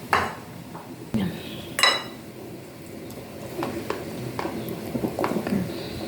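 Kitchen dishes and utensils clattering: a series of knocks and clinks, with two louder ringing clinks, one right at the start and one about two seconds in.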